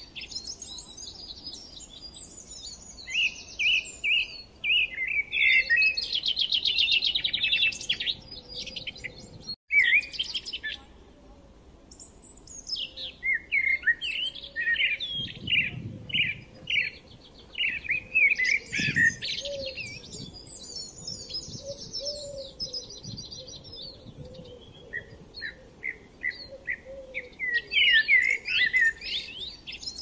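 Several songbirds chirping and singing over one another, in quick repeated chirps and rapid trills. The sound cuts out for an instant about ten seconds in.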